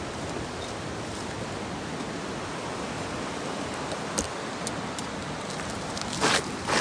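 Steady even outdoor background noise, with a sharp click about four seconds in and two short rustling scrapes near the end.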